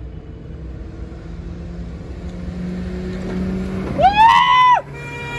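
Hyundai Aura and Maruti Swift cars accelerating flat out in a drag race, their engine sound growing louder as they approach. About four seconds in one engine revs up sharply, holds high and cuts off briefly, as at a gear change.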